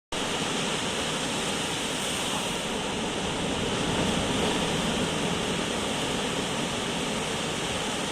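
Rough sea surf: a steady rush of breaking and washing waves, swelling a little about four seconds in.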